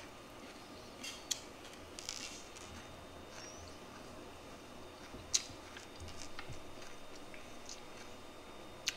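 Close-up mouth sounds of a person chewing a mouthful of celery leaves: soft chewing with a few sharp clicks, the loudest about five seconds in.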